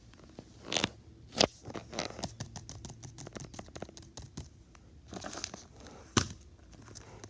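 Close handling of fidget toys and their plastic packaging: crinkling with scattered sharp clicks, the loudest about a second in, again a little later, and once more near the end.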